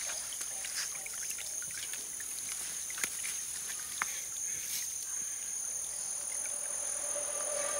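Insects droning steadily in two high, unbroken tones, with a few faint clicks, two sharper ones about three and four seconds in.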